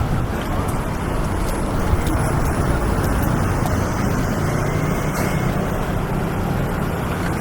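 Road traffic noise on a city street: a steady rumble of passing cars and other vehicles, with no single event standing out.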